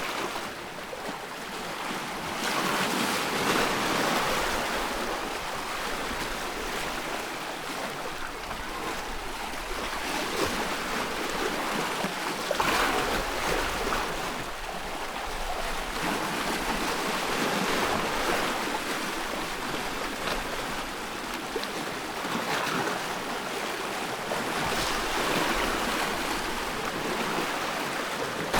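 Ocean waves washing onto a shore: a continuous rushing hiss that swells and eases every few seconds as waves break and recede.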